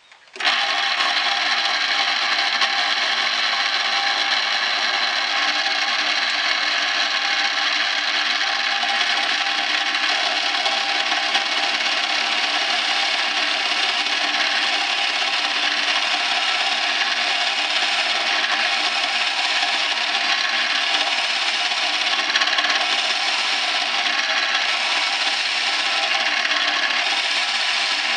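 Drill press with a 2-inch Forstner bit boring into a cedar block. It switches on suddenly about half a second in and cuts steadily.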